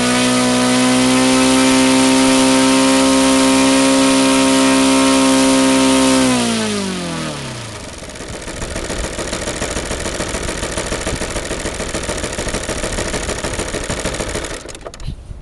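YS 170 CDI four-stroke model aircraft engine running at high speed with a steady tone, then throttled back so its pitch falls over a second or two. It then idles roughly and unevenly until it cuts out shortly before the end.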